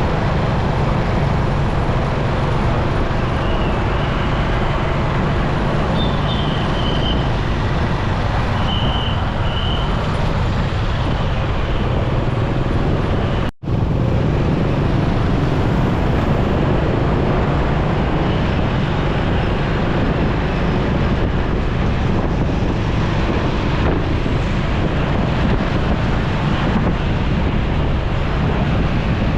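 Steady wind and road noise from a motorcycle riding through city traffic, with other vehicles around it. The sound cuts out for a split second about halfway through.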